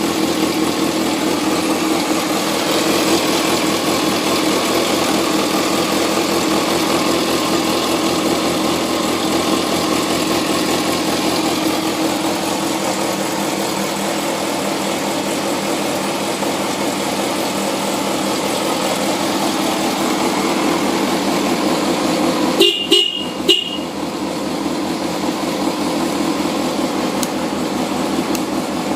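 Yamaha XJR400R's air-cooled inline four running steadily at idle through a Yoshimura titanium-carbon aftermarket muffler. About three-quarters of the way through, the motorcycle's horn gives a few short beeps.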